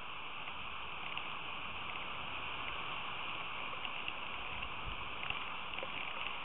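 Steady rain falling, a continuous hiss with scattered drops ticking. A brief low rumble comes about five seconds in.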